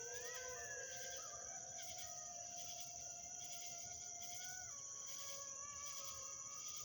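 Several canids howling far off, their voices overlapping: rising glides at the start, then long held notes, one of which stops a little after halfway. A steady high insect chorus pulses behind them, about once a second.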